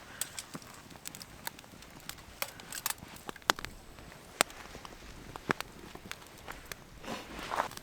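Wood fire crackling, with sharp pops at irregular intervals and a short rustle near the end.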